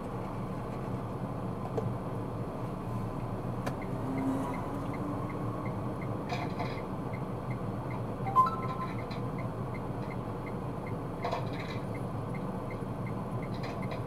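Steady road and engine rumble inside a car cabin. From about four seconds in, a faint, even ticking at roughly two to three per second, like a turn indicator flashing. A few brief knocks and a short beep about eight seconds in.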